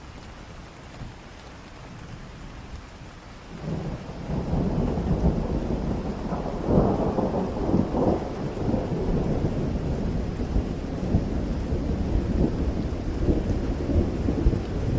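Steady rain with a long roll of thunder that builds about four seconds in, is loudest a few seconds later, and keeps rumbling.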